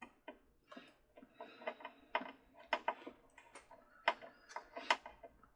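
A screw being driven by hand into a plastic screw boss of a small gearbox: a run of sharp, irregular clicks, a few a second.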